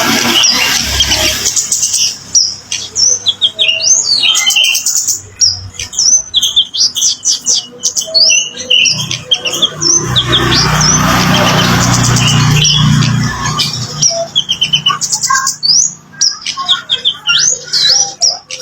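Kemade birds singing: many quick, high chirps and short notes in rapid sequences. A steady rushing noise rises under the song for a few seconds mid-way.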